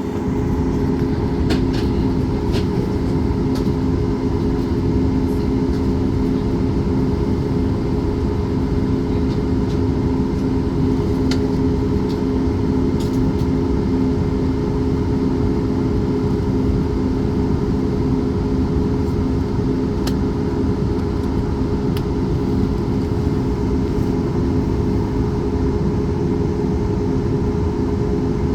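Steady hum of a jet airliner's engines running at idle, with several fixed tones over a low rumble and a few faint clicks. The level and pitch stay flat, so the plane is not yet on its takeoff roll.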